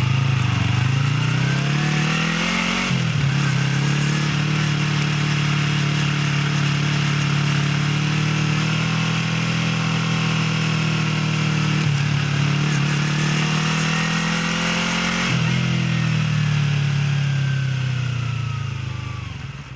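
Motorcycle engine through its stock exhaust while riding: the pitch rises over the first three seconds, breaks at a gear change, then runs steady. The pitch falls away as the bike slows over the last few seconds, and the sound fades out at the end.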